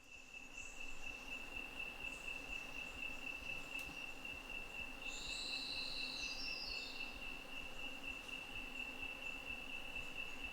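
An insect trilling steadily at one high pitch, unbroken throughout. About five seconds in, a brief, higher chirping call ends in a few notes stepping downward.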